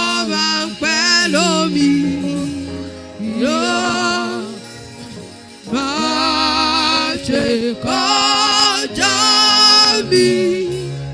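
Gospel worship singing: a voice holds long notes with vibrato in several phrases over accompaniment with sustained bass notes, easing off a little near the end.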